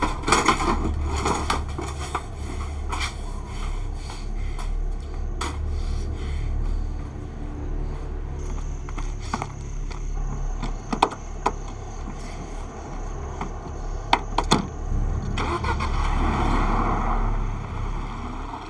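A car engine running with a low, steady rumble, with scattered sharp clicks and scrapes over it and a swell of noise near the end.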